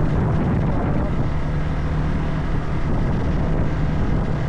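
Steady low rumble with a constant low hum, like a vehicle running.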